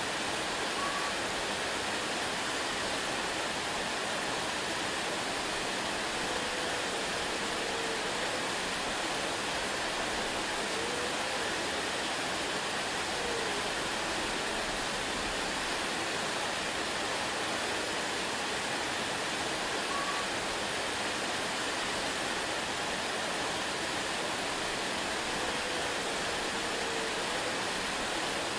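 Waterfall: a steady, unbroken rush of falling water, with a few faint short chirps now and then.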